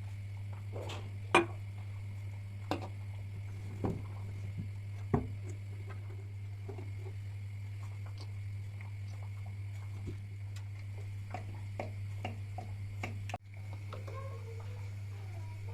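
Scattered light clicks and taps, a few sharper ones in the first five seconds, over a steady low hum.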